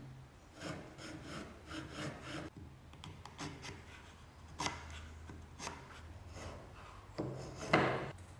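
Hand-tool strokes rubbing or rasping on wood: a quick run of strokes in the first couple of seconds, then scattered single strokes and a louder scrape near the end.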